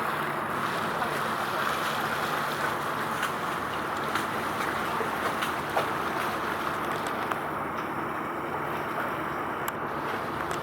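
Steady outdoor wind and water noise, with a faint low hum underneath and a few faint clicks.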